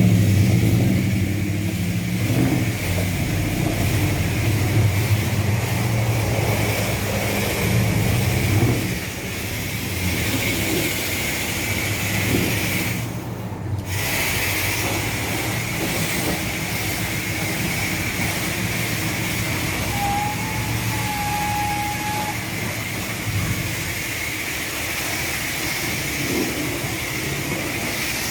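Steady hiss of a car wash pressure spray wand washing a car, with a low rumble under it for the first several seconds and a brief break in the spray about 13 seconds in.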